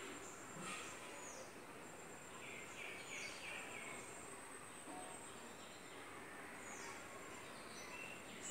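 Faint outdoor background hiss with distant bird calls: several brief, high calls that fall in pitch, and a quick run of short chirps about two and a half seconds in.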